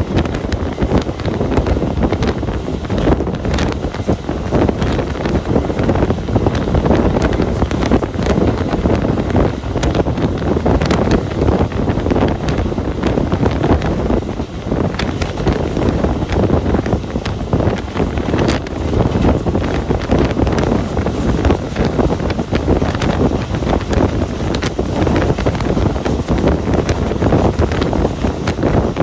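Wind buffeting the microphone on a moving passenger train, over the steady rumble of the running coaches and scattered sharp clicks and knocks from the wheels on the track.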